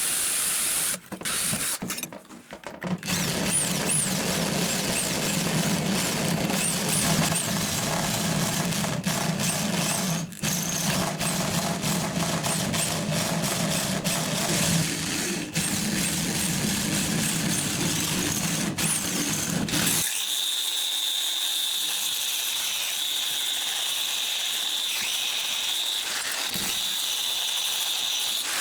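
Power tools running in a workshop, in several cut-together takes. A machine with a steady low hum runs until about twenty seconds in, then gives way suddenly to a steady high-pitched whine.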